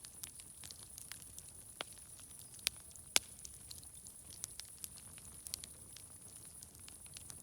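Wood fire crackling, with irregular small pops and two louder snaps about three seconds in, over a steady high hiss.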